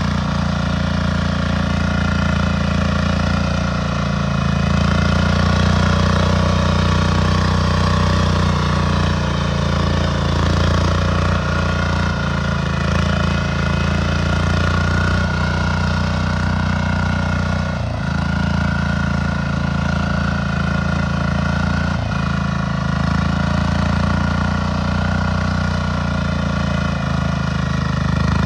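Compact tractor engine running steadily, its pitch wavering slightly up and down.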